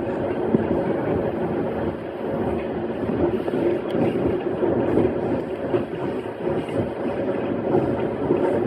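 E131 series electric train running along the line, a steady rumble of wheels on rail with a low, even hum, heard from inside the car.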